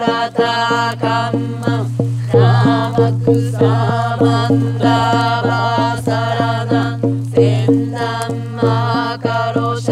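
Mantra-like chanting music: a voice sings over a steady low drone, with quick regular percussive beats.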